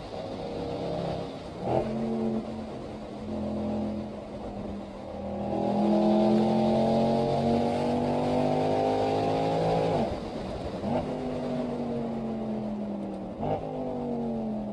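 Mercedes-Benz SL63 AMG V8 engine heard from inside the cabin, pulling through the gears: the engine note climbs in pitch for several seconds. Short breaks mark gear changes about 2 s in, about 10 s in and near the end, and the pitch sinks slowly between the last two.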